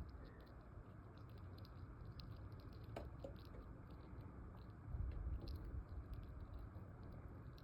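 Faint scattered clicks and soft squishing of wax brood comb being picked open to pull out dead larvae, with a sharper click about three seconds in and a low rumble of handling around five seconds.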